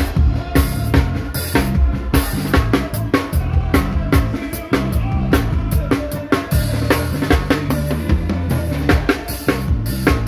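Live band playing an instrumental passage during a sound check, with the drum kit's kick, snare and rimshots out front over steady bass notes.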